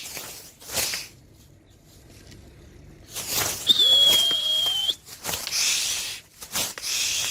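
A steady high whistle held for about a second, a little over three and a half seconds in, among several short bursts of rustling noise.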